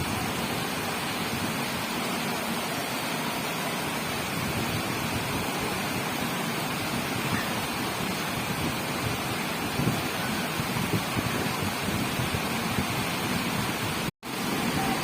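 Steady, heavy rain falling, an even hiss of water, with a brief dropout to silence near the end.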